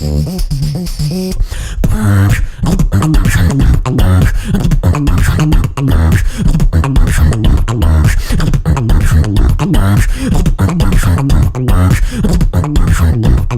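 Beatboxing: a fast run of vocal percussion, mouth clicks and drum-like hits mixed with pitched, hummed or sung bass tones, with a brief pause just before two seconds in.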